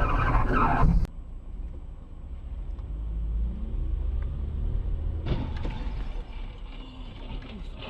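Car engine and road rumble heard from inside the car. A louder, noisier stretch cuts off abruptly about a second in, and there is a single sharp click a little past the middle.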